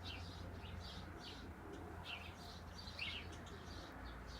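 Sparrows chirping: short, high, repeated chirps, a couple a second and irregular.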